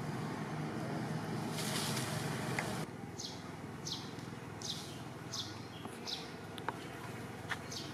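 Steady outdoor background noise. From about three seconds in, a bird calls a short, high, falling chirp over and over, roughly every three-quarters of a second.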